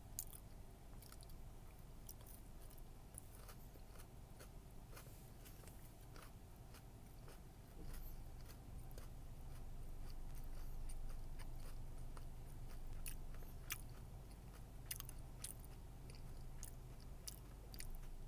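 A person chewing a crunchy Nature Valley Protein peanut butter and dark chocolate chewy bar with rice crisps, close up: many small crisp crunches and clicks at an irregular pace over a steady low hum.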